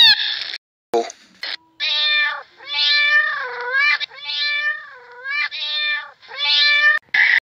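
A run of about seven short, high mewing animal calls, several dipping in pitch in the middle, starting about two seconds in.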